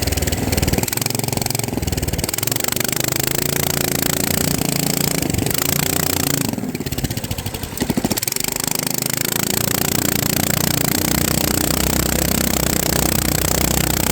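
FPV drone's motors and propellers buzzing steadily, the pitch shifting with throttle; the sound eases off about two-thirds of the way through, then surges back.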